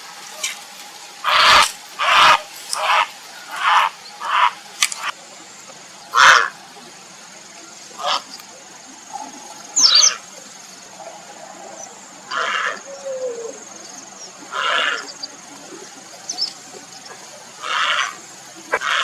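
Grey heron giving short, harsh croaking calls, about a dozen in all at uneven intervals: several in quick succession in the first five seconds, then one every two seconds or so.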